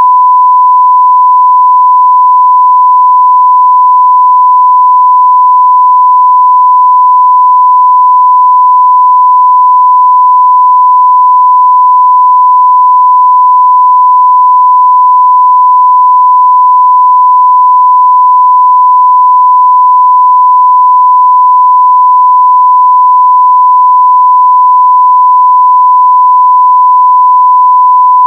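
Continuous 1 kHz sine-wave test tone at full level (0 dB), a single steady pitch with no change.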